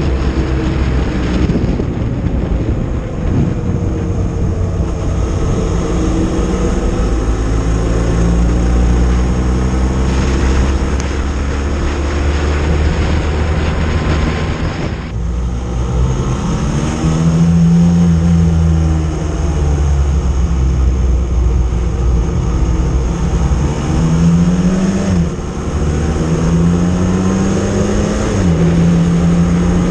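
Motorcycle engine running while riding, its pitch repeatedly rising under acceleration and falling back at the gear changes, with a short break about halfway through.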